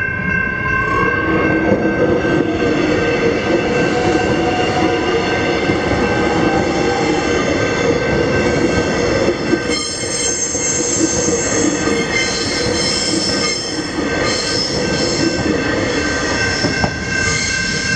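Electric suburban train passing over a level crossing, a continuous rumble with some wheel squeal. Over it, the crossing's electronic warning bells ring steadily while the gates stay down.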